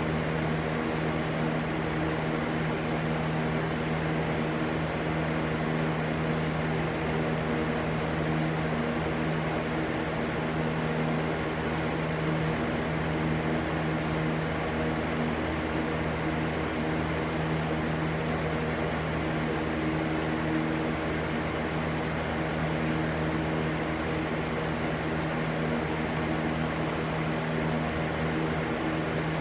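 Electric fan running steadily: an even rush of air over a constant low motor hum, unchanging throughout.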